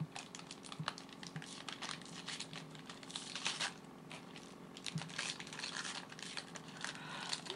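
Sealed cookie packaging crinkling and tearing as it is pulled open, a dense run of small irregular crackles with a few louder ripping moments around the middle.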